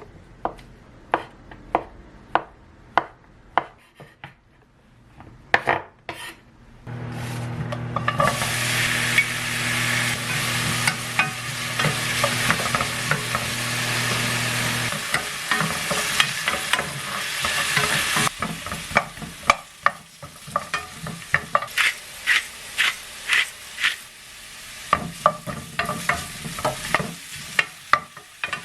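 Food frying in a pan, sizzling loudest in the middle stretch, while a utensil stirs it and repeatedly clicks and taps against the pan. A steady low hum runs under the first half of the sizzling and stops about halfway through.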